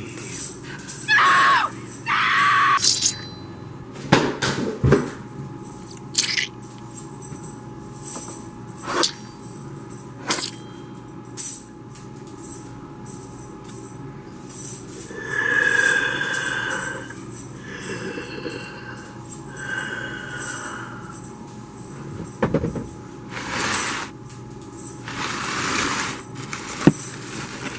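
Horror sound-effect ambience: a steady low drone with scattered sharp knocks and clicks, a few gliding pitched sounds near the start, and a run of pitched tones about halfway through.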